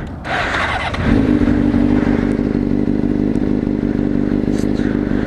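Honda CBR600RR's inline-four engine running, settling into a steady note about a second in.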